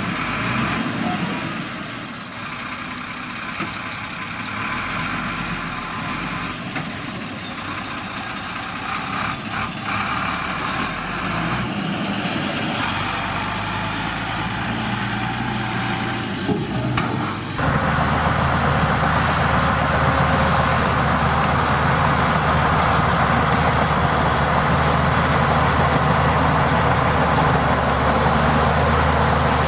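Heavy diesel engines of earthmoving machines (bulldozers and dump trucks) running steadily, with a few faint knocks. About two-thirds of the way through, the sound suddenly changes to a louder, steadier engine note.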